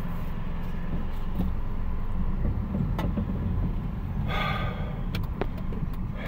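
Low, steady rumble of a car heard from inside the cabin, as of the engine idling, with a faint click about three seconds in and a short higher-pitched sound about four and a half seconds in.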